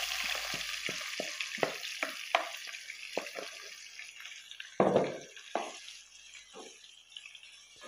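Marinated chicken sizzling in a hot non-stick pot, the sizzle fading, while a wooden spoon stirs it with irregular wet clicks and knocks against the pot, the loudest about five seconds in.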